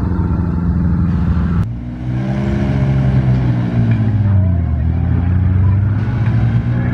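Vintage racing car engine running. After a sudden cut about a second and a half in, it revs up and eases back, then runs at a lower, steady note.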